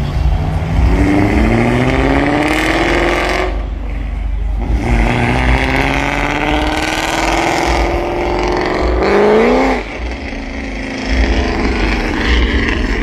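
Car engine accelerating hard, its pitch climbing steadily, breaking off at a gear change about four seconds in, then climbing again. A quick sharp rev comes about nine seconds in.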